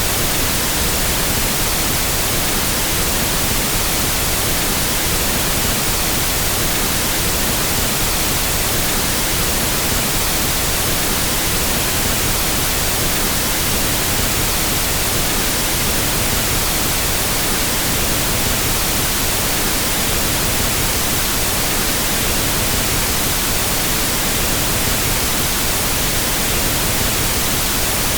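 Pink noise test signal for equalizing sound equipment: a steady, unbroken hiss across the whole range of pitch, unchanging throughout.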